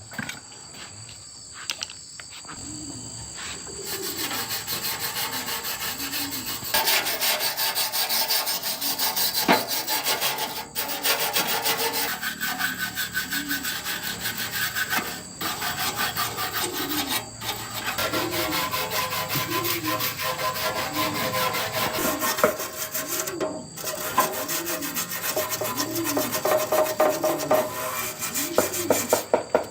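Hand scraping in repeated back-and-forth strokes, roughly one a second, like filing or sanding a part by hand.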